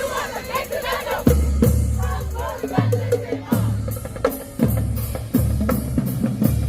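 High school marching band playing a dance-routine tune: low sustained sousaphone notes over bass drum and snare hits, with shouting voices over the first second or so.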